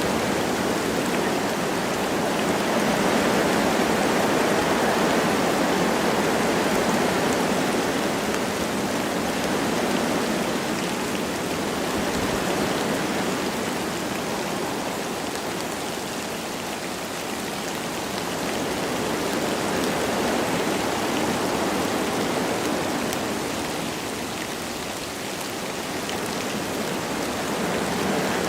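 Wind rushing through forest trees with light rain falling: a steady noise that slowly swells and eases several times.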